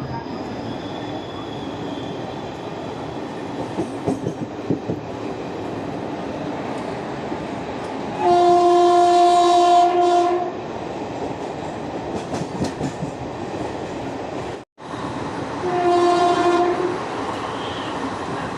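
Indian Railways express train running along the track with a steady rumble and some rail clatter. A train horn sounds twice, first for about two seconds and then more briefly.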